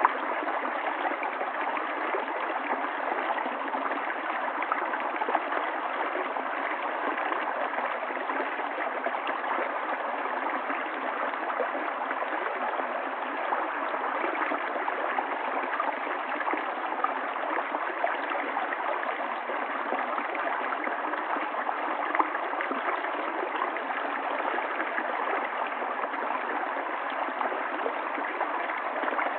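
River water flowing and babbling steadily, an even rushing with small splashy flickers.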